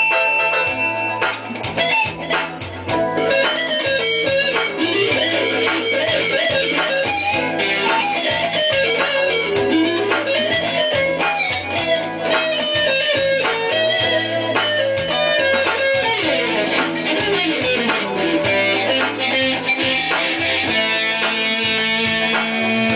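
Guitar music: a plucked, electric-sounding guitar playing a busy melodic line over a repeating bass pattern.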